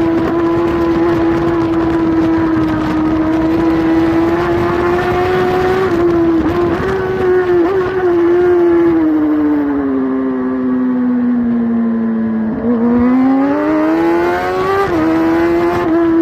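Kawasaki superbike engine at high revs, heard on board at racing speed with wind rushing past. The revs jump briefly a few times around the middle. They then fall steadily for a few seconds as the bike slows, and climb again before a quick drop and a return to a steady high pitch near the end.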